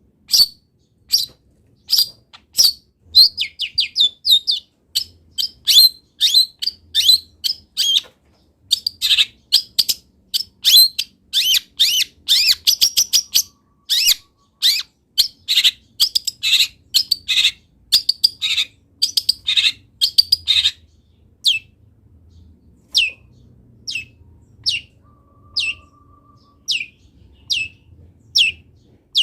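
Long-tailed shrike (cendet) singing loudly. A fast run of varied high chirps and trills thins out after about 20 seconds to single sharp downward-sliding notes, a little more than one a second.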